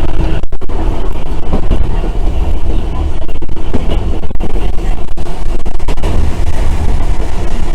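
Randen (Keifuku Electric Railroad) tram running along its line, a loud, steady low rumble of motors and wheels on rail heard from inside the car.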